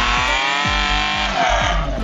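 Suzuki Samurai off-roader's engine revving hard under load as it drives up a muddy bank, with its pitch rising. Background music with a steady beat plays over it.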